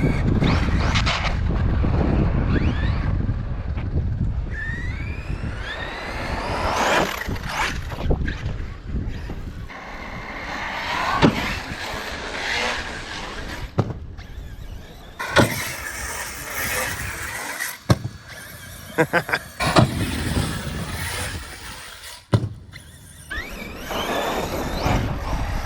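ARRMA Outcast 6S EXB RC stunt truck driven hard, its Hobbywing Max8 4279 brushless motor whining and rising in pitch as it revs up. Several sharp thumps come as the truck lands and hits the ground.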